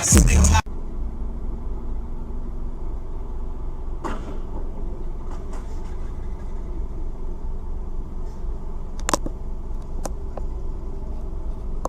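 Steady low rumble of a car driving, heard from inside the cabin, with a few short faint clicks near the end.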